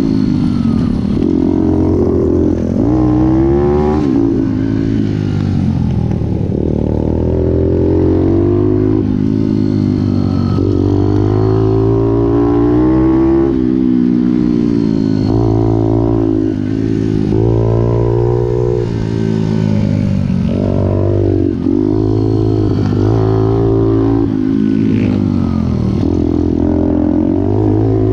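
Pit bike's small single-cylinder four-stroke engine revving hard, its pitch climbing and dropping again every second or two as it accelerates and shifts through the gears.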